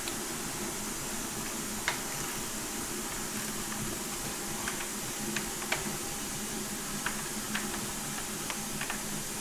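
Light, scattered clicks and taps of small parts and tools being handled, about eight in all, over a steady background hiss.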